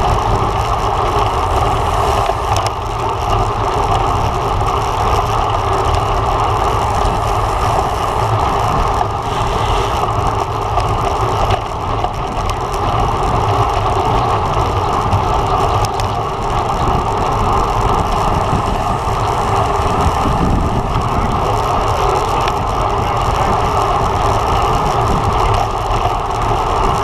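Steady wind rush over the microphone of a road bike's camera at race speed, with a low rumble of tyres on the road.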